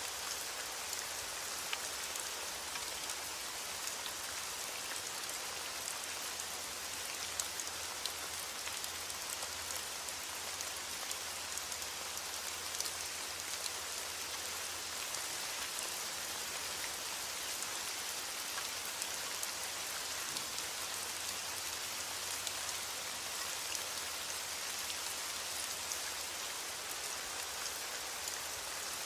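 Heavy rain on window glass: a steady, even hiss with many small scattered ticks and pops throughout.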